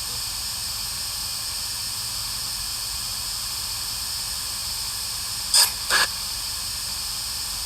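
Steady radio static hiss from a sweeping spirit box, with two short, louder bursts about five and a half and six seconds in.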